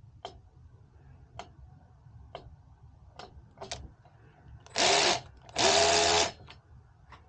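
Small electric screwdriver running in two short bursts, about half a second and then about three quarters of a second, with a steady motor whine. Faint ticks come about once a second before the bursts.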